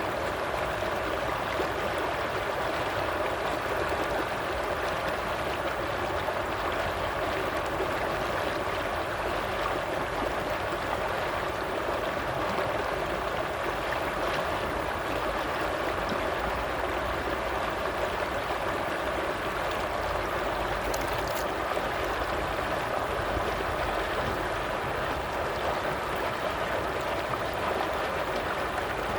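Water flowing steadily in a stream, an even, unbroken rush without pauses.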